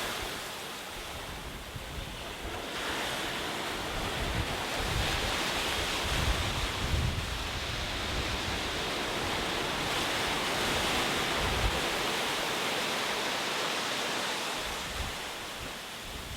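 Ocean waves breaking and washing on a shore: a surge that builds a few seconds in, holds, and eases off near the end, with low rumbling underneath.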